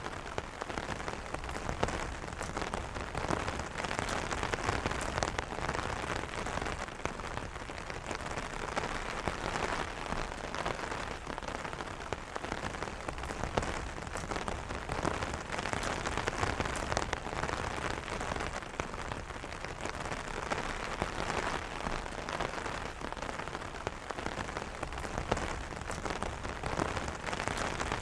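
Steady rain pattering on an umbrella canopy, a dense run of small drop ticks over a continuous wash of rainfall with no thunder.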